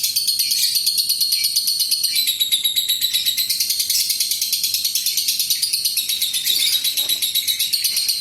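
Lovebird giving a long, unbroken 'ngekek' chatter: a high-pitched rattling trill of rapid, even pulses, about ten a second, with no pause.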